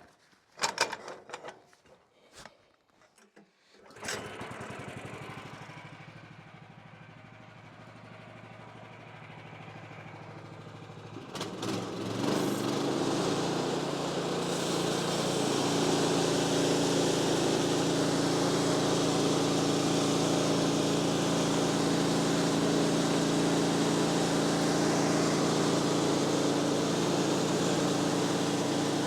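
A few metal clanks, then the sawmill's small gas engine starts about four seconds in and runs at low speed. About twelve seconds in it is throttled up and runs steadily at high speed.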